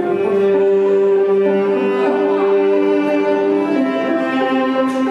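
Slow music played on bowed string instruments, with long notes held and changing slowly.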